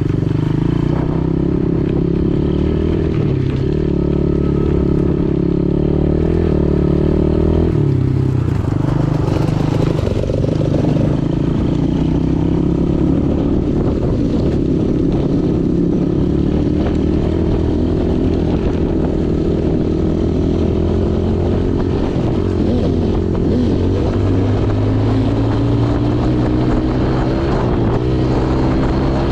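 Pit bike engine running as the bike is ridden, its pitch rising and falling with the throttle.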